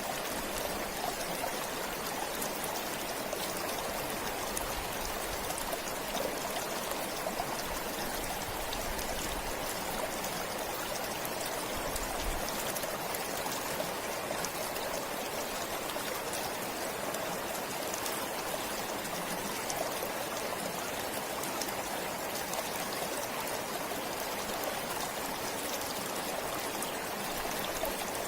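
Forest stream flowing steadily, an even rush of water with light trickling.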